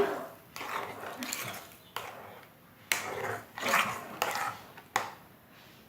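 Spoon stirring and scraping sticky homemade slime in a bowl, with several sharp knocks of the spoon against the bowl and wet, sticky squelches between them.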